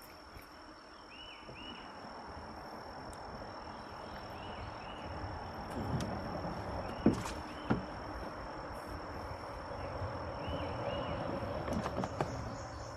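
Insects calling outdoors: a steady high-pitched drone with small chirps repeating over it. A rushing noise builds through the middle, and there are two sharp knocks a little after seven seconds in.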